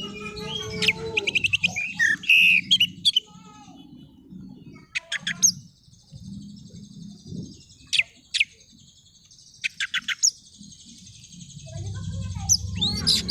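Oriental magpie-robin singing: bursts of rapid high chirps and quick sweeping whistles, busiest in the first three seconds, then short phrases every couple of seconds.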